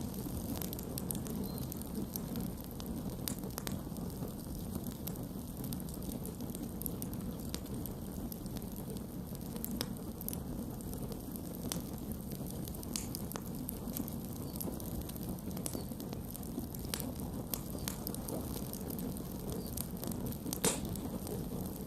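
Campfire burning steadily with a low rumble of flames and scattered sharp crackles and pops of burning wood, one louder pop near the end.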